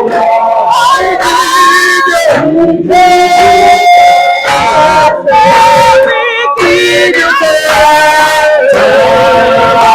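A man's voice singing a slow worship song, holding long notes, some with a wavering vibrato.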